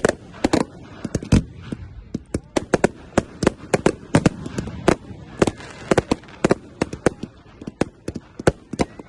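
Fireworks going off in a display: a rapid, irregular string of sharp bangs and cracks, several a second, with louder booms among them.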